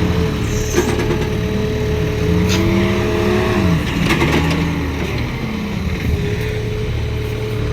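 Heavy diesel engine of construction machinery running steadily, rising and falling in pitch a couple of times around the middle.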